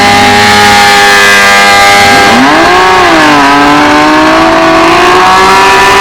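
Motorcycle engine held at high revs, dropping and climbing back sharply about two and a half seconds in, then running steady again.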